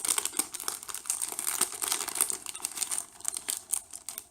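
Crinkly packaging rustling and crackling in the hands as a pack of paper journaling cards is handled and opened, a dense run of irregular crackles.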